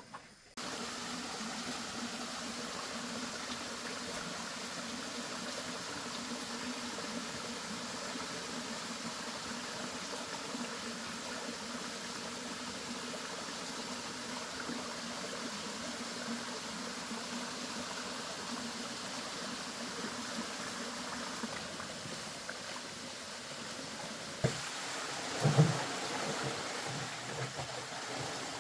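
Steady rush of flowing water with a faint low hum underneath, starting suddenly; near the end a few louder knocks.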